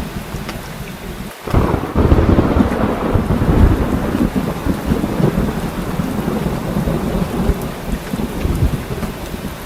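Heavy rain falling steadily with thunder. About a second and a half in, the thunder swells suddenly into a loud, deep rolling rumble that slowly dies back under the rain.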